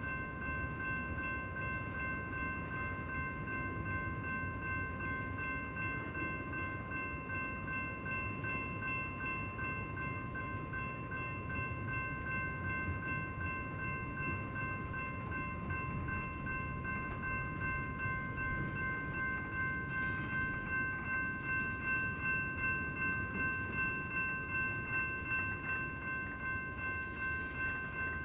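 Intermodal freight train rolling by: a steady low rumble from the cars, with a high whine of several steady held tones over it. A regular rhythmic pulsing builds near the end as the train picks up speed.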